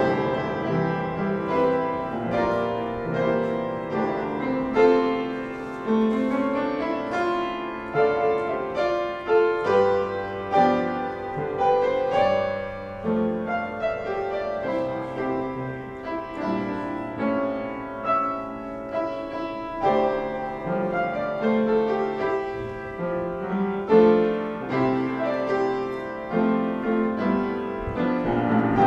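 Solo piano music, with notes and chords struck and left to ring.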